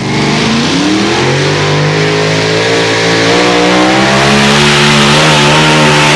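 Loud competition pulling tractor's engine climbing in pitch over the first second or so, then running steady at high revs under full throttle.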